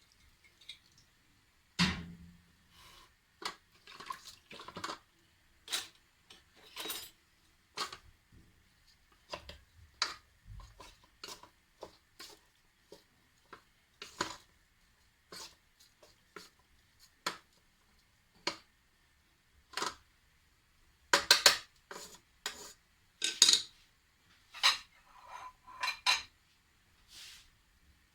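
Cookware and utensils clinking and knocking at irregular intervals, with a quick run of clanks about three quarters of the way through.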